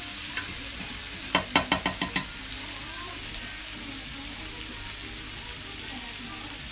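Beef, spinach and peppers sizzling steadily in a frying pan. A little over a second in, a spatula knocks against the pan about six times in quick succession as the food is stirred.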